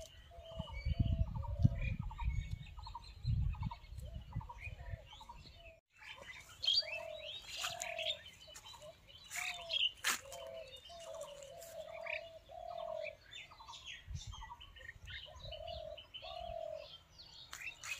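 Birds calling: one bird repeats a short, low call over and over, while others chirp higher. A low rumble on the microphone runs through the first few seconds, and the sound drops out briefly about six seconds in.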